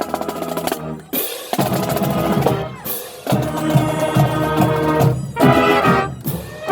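Marching band playing: brass chords over bass and snare drums, the music broken by a few short stops between phrases.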